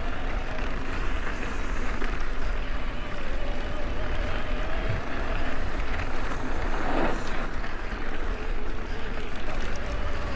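A mountain bike being ridden over soft dirt single track: steady wind rumble on the microphone over the rolling noise of the tyres and the bike, with one short louder noise about seven seconds in.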